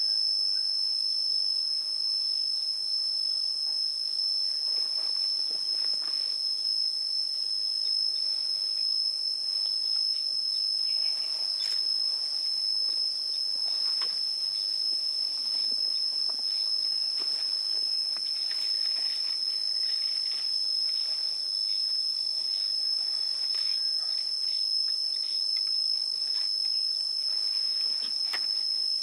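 A steady, high-pitched insect chorus that holds one pitch without a break, with a few faint, brief sounds scattered beneath it.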